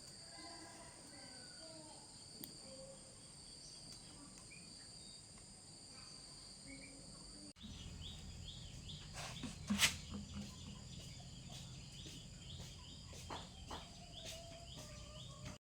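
Insects trilling steadily in the background. About halfway the sound changes abruptly: a low hum joins, with scattered clicks and one sharp knock a little later.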